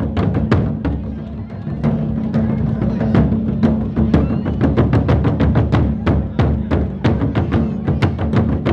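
Japanese taiko drums played in a kimen-daiko (demon-mask drumming) piece: a steady, driving run of about three or four strikes a second, with the drums' deep resonance ringing underneath.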